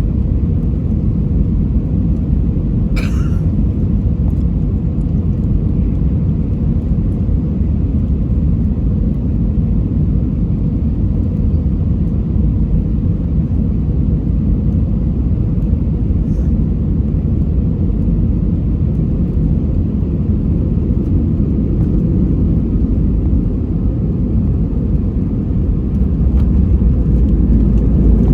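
Steady low rumble of engine and airframe noise inside an Airbus A320-200's cabin, with one short sharp click or clink about three seconds in. The rumble grows a little louder near the end.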